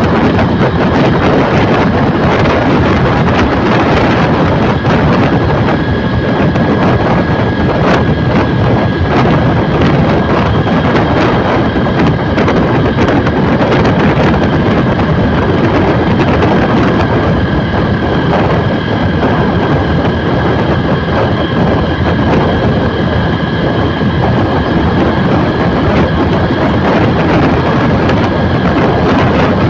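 Steady rushing and rumbling noise of a moving vehicle, with wind on the microphone and a faint steady high whine throughout.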